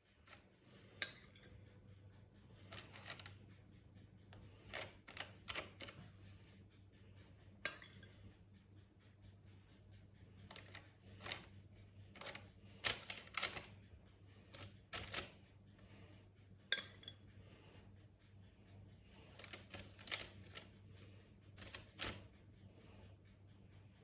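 Irregular light clicks, taps and clinks of small household objects being handled, some in quick clusters, over a faint steady low hum.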